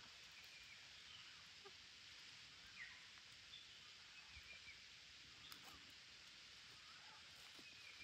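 Near silence: faint outdoor background hiss with a few faint, short, high bird chirps scattered through.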